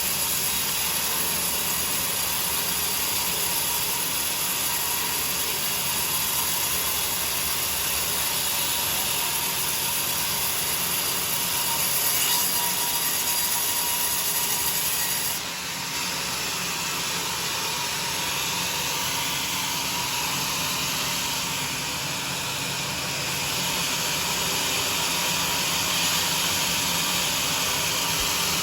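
Sawmill saw running and cutting through a teak log, a continuous steady machine-and-cutting noise that shifts briefly a little over halfway through.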